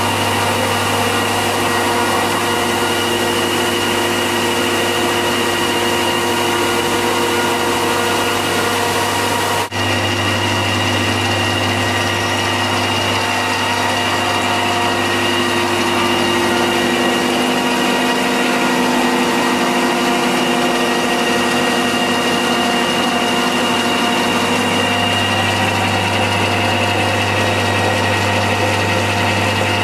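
Small farm hydro turbine and generator running steadily: a constant machine hum with several fixed tones over a rushing noise. The lowest hum fades for several seconds in the middle and comes back, and there is one brief break about ten seconds in.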